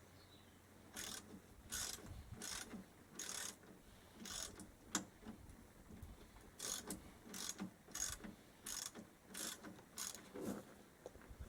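Ratchet wrench being worked back and forth, its pawl clicking in short strokes about 0.7 s apart, in two runs with a brief pause between them.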